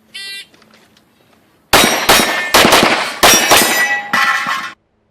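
Electronic shot timer beeps once, then after about a second and a half comes a fast string of shots from an Open-division competition pistol, with steel targets ringing after hits. The sound cuts off suddenly near the end.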